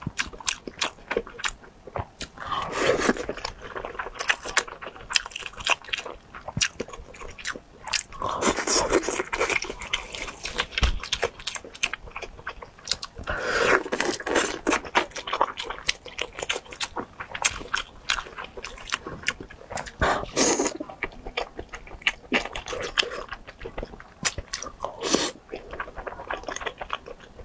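Close-miked chewing and biting of oden skewers (fish balls, fish cakes, tofu) in a spicy sauce: a dense run of quick wet mouth clicks, with louder bursts of chewing every few seconds.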